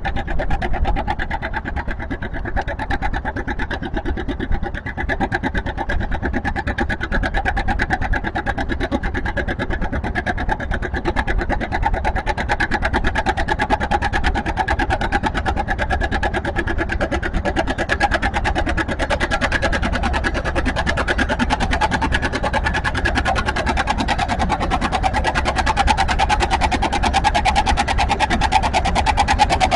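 Tractor engine running hard under load as it pulls the sled, a fast steady firing beat that grows louder toward the end.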